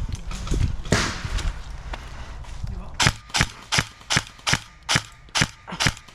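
Airsoft electric gun, the BOLT MP5K AEG, firing about eight single shots in steady succession, two or three a second, each a sharp crack, after a few seconds of rustling movement.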